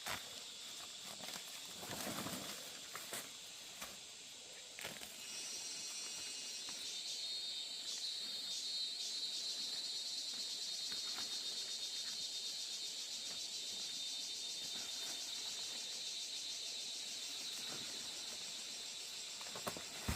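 Insects buzzing in a steady, high, finely pulsing chorus that swells in about five seconds in, over a few rustles and knocks of movement through vegetation.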